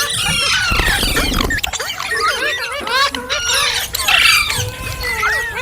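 Indian ringneck parakeet chattering and screeching in quick, overlapping rising-and-falling calls.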